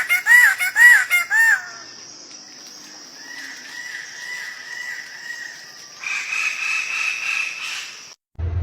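A bird calls in a quick series of loud, arched notes, about three a second, that stop about a second and a half in. Fainter repeated calls follow over a steady high hiss.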